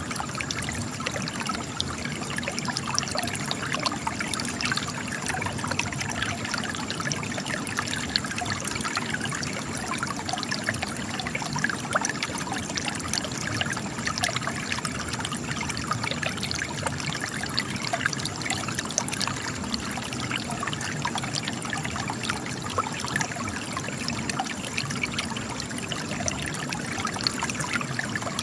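Spring water trickling and splashing as it runs out of cracks in rock, a steady patter of small splashes with no pause.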